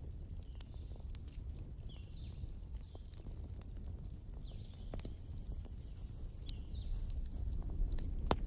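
Wood fire crackling over a steady low rumble, with a few sharp pops, the loudest near the end. Short, thin, high falling chirps come and go throughout.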